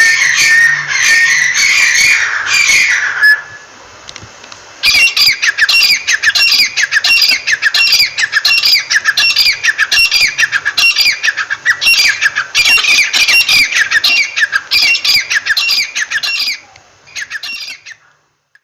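Teetar (francolin) calling: rapid, harsh, repeated notes in a loud, fast series, broken by a pause of about a second and a half a few seconds in, then calling on and fading out near the end.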